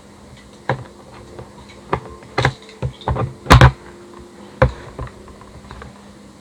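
Irregular sharp clicks and knocks of hard plastic as motorcycle helmet parts and screws are handled and fitted back in place; the loudest, a close pair of knocks, comes about three and a half seconds in.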